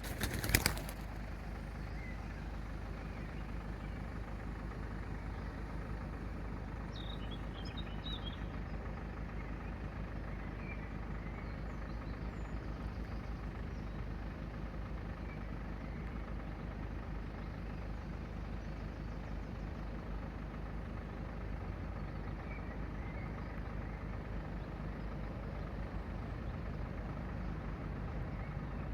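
A loud clatter about half a second in, then a steady low vehicle-engine rumble, with a few faint bird chirps around eight seconds in.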